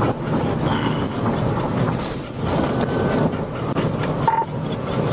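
Cabin noise of a police patrol car at about 100 mph: steady road and wind noise with the engine under it, and a short beep near the end.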